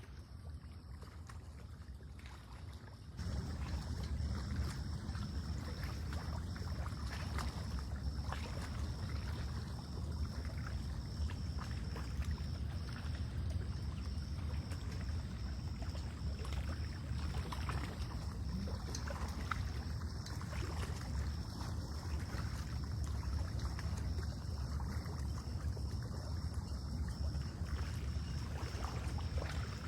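Lakeshore ambience: a low rumble of wind on the microphone with water lapping, louder from about three seconds in, over a faint steady high-pitched whine.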